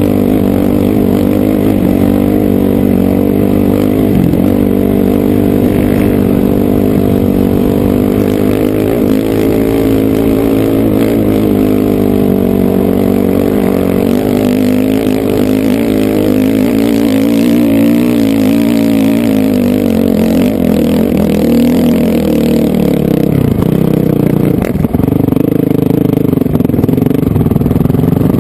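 Honda CRF450R dirt bike's four-stroke single-cylinder engine running loud under way, its pitch rising and falling with the throttle. The revs drop a little over three-quarters of the way through, then pick up again.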